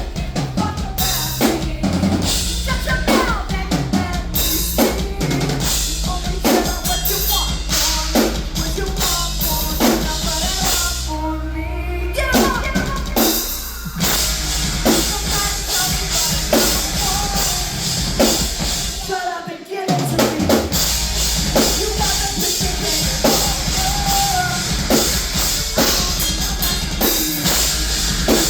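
Live rock band playing an instrumental passage, the drum kit to the fore with a steady beat of kick and snare. The music drops away for a moment about twenty seconds in, then comes back in full.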